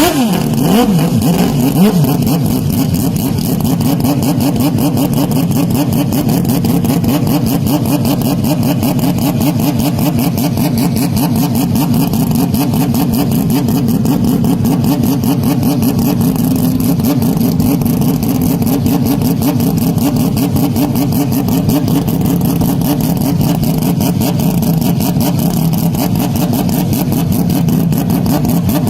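Car engine running hard at a nearly steady pitch, very loud and distorted, with a fast even pulse from its firing.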